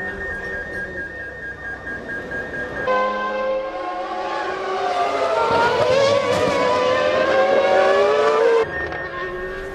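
Formula One V10 engines at high revs, several cars at once, their pitches rising and falling as they pass. The sound swells from about three seconds in and cuts off suddenly near the end. Before that, an engine is heard under a steady high tone.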